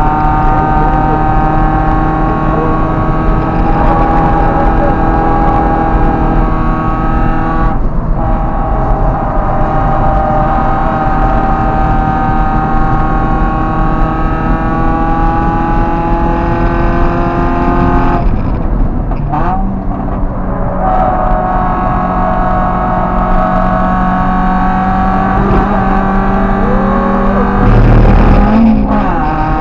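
Car engine under hard acceleration, heard from inside the cabin on track. The revs climb in long pulls, with a gear change about eight seconds in. Around two-thirds of the way through there is a lift and downshift, and near the end a sharp rev blip.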